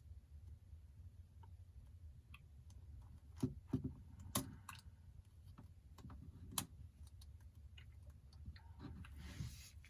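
Scattered light clicks and taps of a small screwdriver and tiny screws being handled and driven into an iPhone 8's internal back plate. There is a cluster of sharper clicks about halfway through, one more a few seconds later, and a breath near the end, over a steady low hum.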